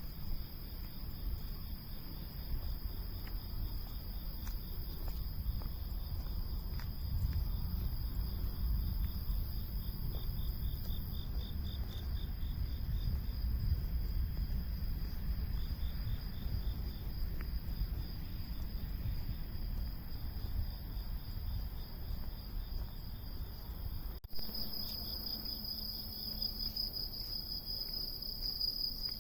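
Cicadas singing: a steady high-pitched buzz with a pulsing trill beneath it, over a low rumble. After a sudden cut about 24 seconds in, the buzz is louder.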